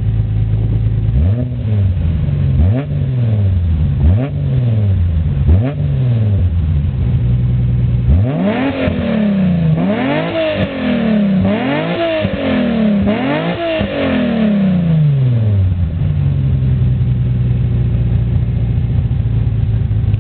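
Nissan RB26DE inline-six idling and free-revved through a one-off dual exhaust with catalytic converter and rear silencer. It gives four quick blips, then four higher revs about halfway through, and settles back to a steady idle. The glass wool packed in the rear silencer keeps the high notes subdued.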